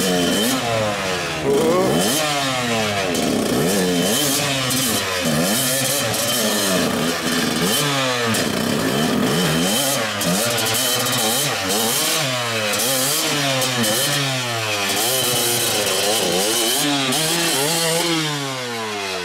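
Dirt bike engine revved hard and repeatedly, its pitch climbing and dropping about once a second as the rider works the throttle through a slippery rocky water crossing. The revs fall away near the end.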